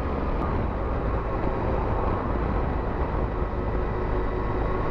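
Motorcycle running steadily at road speed, its engine hum mixed with wind and road noise as it climbs a mountain highway.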